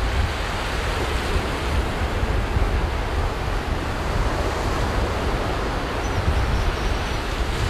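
Ocean surf washing onto a beach, a steady rushing wash of waves, with wind buffeting the microphone as a low rumble.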